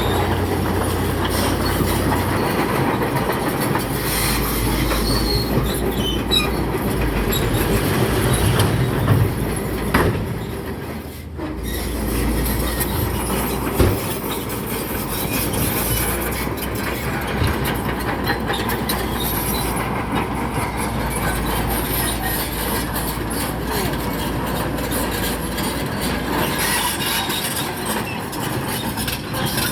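Crawler bulldozer at work pushing rock: a steady, loud mechanical din of diesel engine and steel tracks with constant clanking, dipping briefly about eleven seconds in.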